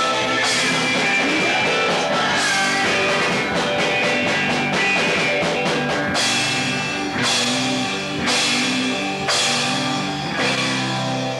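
A live rock band playing: electric guitar chords held over a drum kit, with a quick run of drum hits in the middle, then five cymbal crashes about a second apart.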